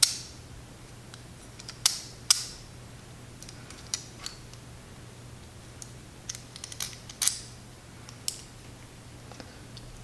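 Small hard clicks and taps of screws and a screwdriver being handled against carbon fibre frame plates during hand assembly, the sharpest at the start, twice about two seconds in, and about seven seconds in. A faint steady low hum runs underneath.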